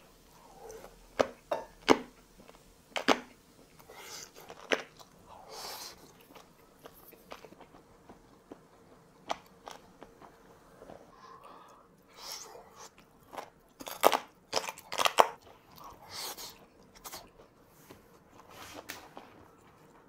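Close-miked chewing of grilled pork belly: wet mouth sounds and irregular sharp, crunchy clicks, with a run of louder crunches about twelve to fifteen seconds in.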